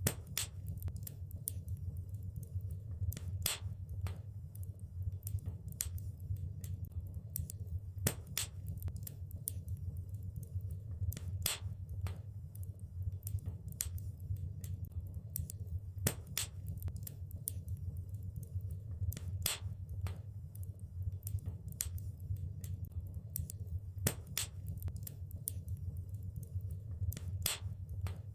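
Wood fire crackling in a fireplace: a steady low rumble of the flames under frequent sharp pops and snaps, with a louder pop every few seconds.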